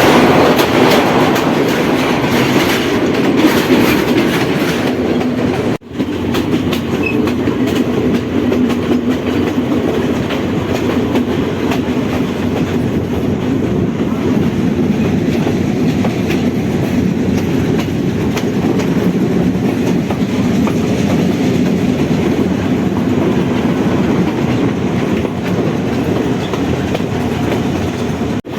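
Passenger train running along the track: a steady carriage rumble with the wheels clicking over rail joints. The sound breaks off for an instant about six seconds in.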